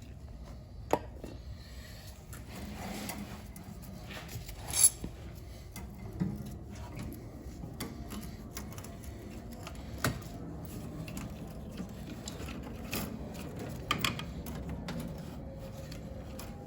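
Scattered metallic clinks and knocks of tools and boiler parts being handled, the loudest about five seconds in, over a steady low hum.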